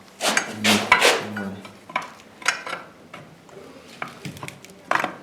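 Metal engine parts and tools clinking and knocking against each other during an engine teardown: a quick cluster of clatters in the first second and a half, then a few single clicks.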